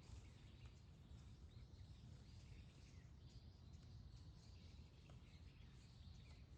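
Near silence: faint, scattered chirps of small birds over a low, steady outdoor rumble.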